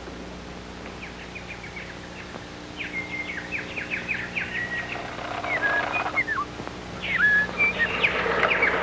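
Small bird chirping and twittering in quick high runs, with a few short downward-sliding notes, louder near the end, over a faint steady hum.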